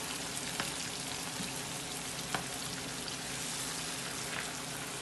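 Seasoning of onion, garlic, Scotch bonnet pepper and tomato frying in a pan: a steady sizzle with a couple of sharp pops.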